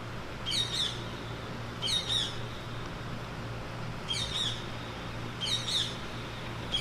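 A squeaky pet toy being squeezed again and again: five short, high squeaks, each a quick double squeak, about a second and a half apart, over a low steady hum.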